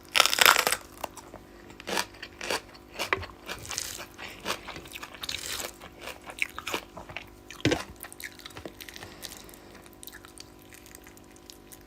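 A person chewing and biting food close to the microphone, with crunchy bites and irregular mouth clicks, the loudest bite right at the start.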